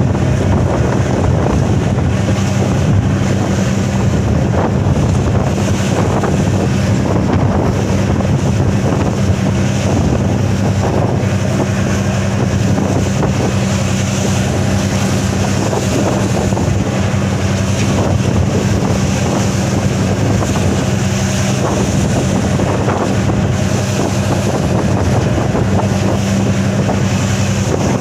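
A boat's engine running steadily at an even pitch, with strong wind blowing on the microphone and water noise.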